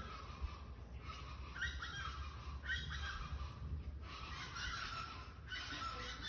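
Birds calling in harsh, noisy bursts that repeat roughly once a second, with short gaps between them.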